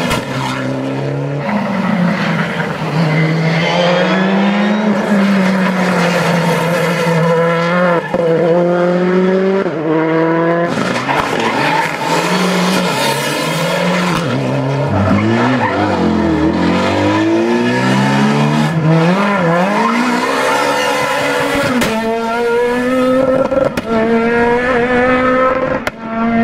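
Rally car engines accelerating hard, their pitch climbing in steps with quick upshifts, several runs in succession; around the middle one car's pitch drops and then rises again as it passes and pulls away.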